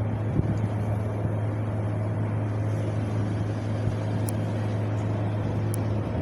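Wind blowing steadily, a deep constant rumble under an even rushing hiss.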